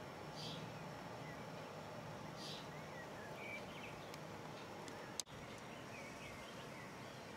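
Faint outdoor ambience with birds chirping: a short high call repeats about every two seconds, with small chirps in between. A single sharp click comes about five seconds in.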